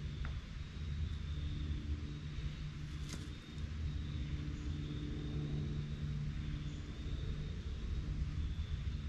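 Steady low engine drone with a constant pitch, with a single faint click about three seconds in.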